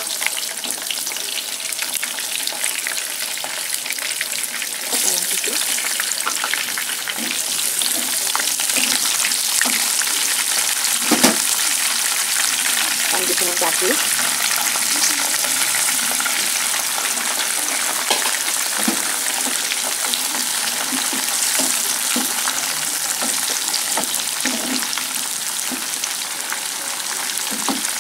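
Shallots and red chilies frying in hot oil in a pan: a steady loud sizzle dotted with small pops, one louder pop about eleven seconds in. A wooden spatula stirs the pan near the end.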